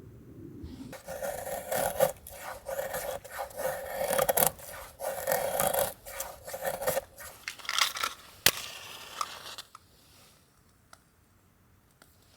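Repeated scraping strokes for about eight seconds, with a sharp click near the end.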